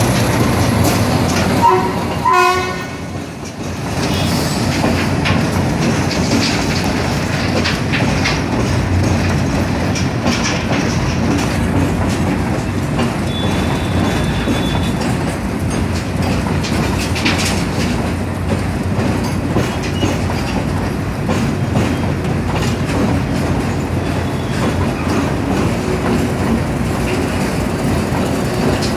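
Diesel locomotive-hauled train running, a steady rumble with the clatter of wheels over the rail joints. A short horn sounds about two seconds in.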